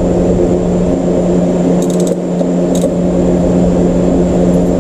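A steady, even-pitched mechanical hum, with a few light metallic clicks of hand tools at about two seconds and near three seconds as the spark plugs are worked out.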